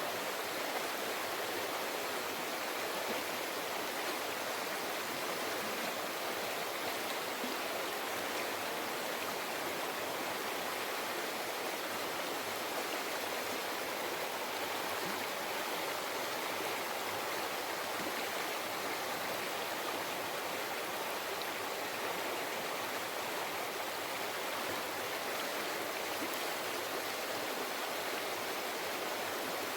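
A river flowing steadily, a continuous soft babbling rush of water with no breaks or changes.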